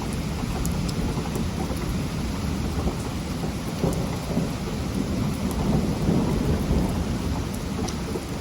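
Heavy rain falling steadily, with scattered drop ticks and a low rumble of thunder that swells louder a little past the middle.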